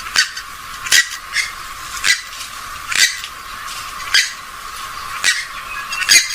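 Short, sharp calls of a rail-family waterbird of the swamphen and moorhen kind, repeated about once a second.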